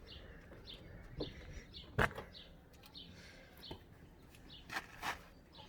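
Birds chirping in short repeated calls, with a few faint clicks and one sharper knock about two seconds in.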